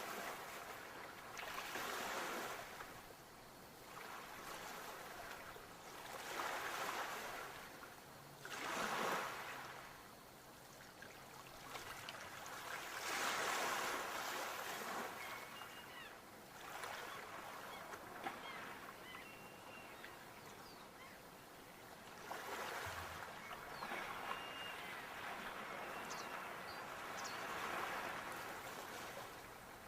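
Sea waves breaking and washing up a shore, the surf swelling and falling away every few seconds.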